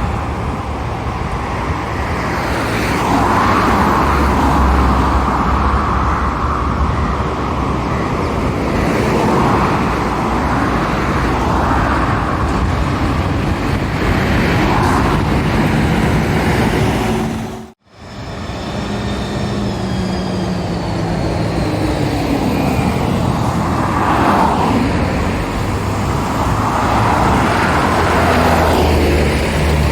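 Road traffic passing at the roadside: lorries and cars driving by, their diesel engines and tyres swelling and fading as each one goes past, with falling engine pitch as vehicles pass. The sound cuts out abruptly a little past halfway, then resumes with more passing traffic.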